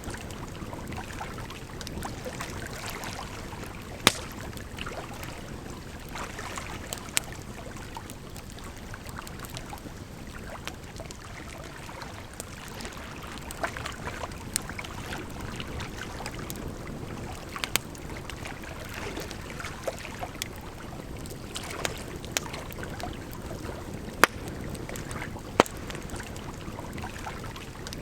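Campfire crackling, with sharp pops every few seconds, over the steady rush of flowing water.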